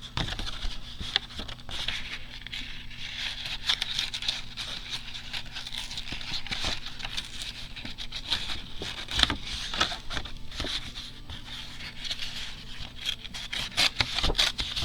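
Paper being slowly torn and handled, a continuous crackly ripping and rustling broken by small clicks.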